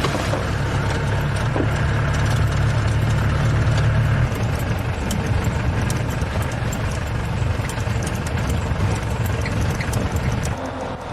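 A safari vehicle's engine running steadily, heard from on board with rattles from the vehicle body; its note changes near the end.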